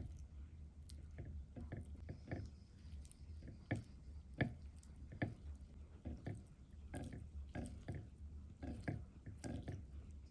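Close-miked chewing of soft chocolate cake: irregular wet smacks and clicks of the mouth, about one or two a second, over a steady low hum.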